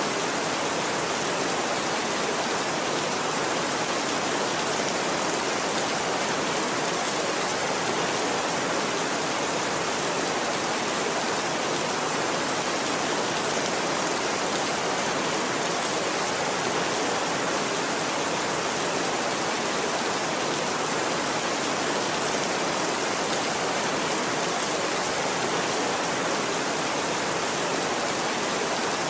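Steady rainfall, an even hiss of drops with no change in strength and no thunder.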